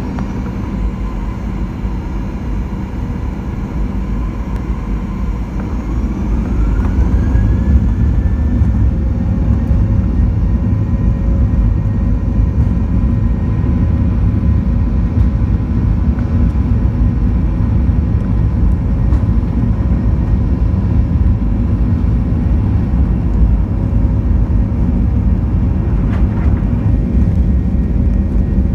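Boeing 737-900ER's CFM56-7B jet engines heard from inside the cabin, spooling up with a rising whine about six seconds in. A steady, louder rumble of takeoff thrust follows.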